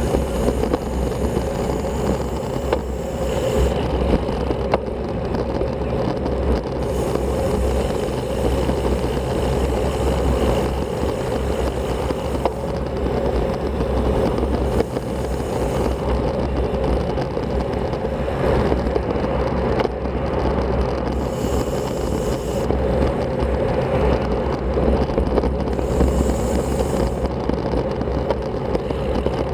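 Masi Speciale Strada road bike riding steadily, its tyres running on the road, with a constant low wind rumble on the action camera's microphone.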